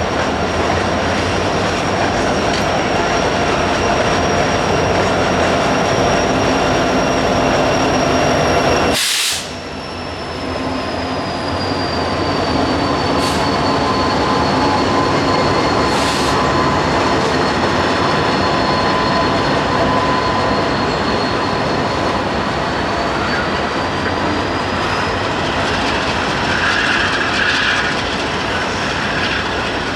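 Coal train passing: a steady rumble of steel wheels on rail with clickety-clack and a thin, high wheel squeal that drifts slightly down in pitch. A single sharp crack sounds about nine seconds in.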